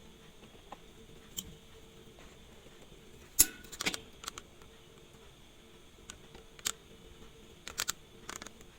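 Small metal watchmaker's tools clicking and tapping on a watch movement during hairspring adjustment: a few scattered sharp clicks, the loudest about three and a half seconds in, over a faint steady hum.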